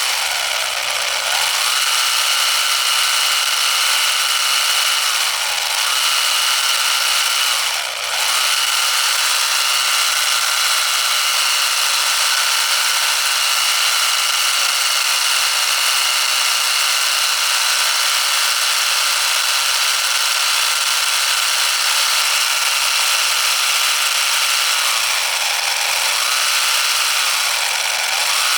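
A miniature diesel engine running fast and steadily with a high-pitched, buzzing mechanical whine. Its speed sags briefly and picks back up a few times: about a second in, twice around the quarter mark, and again near the end.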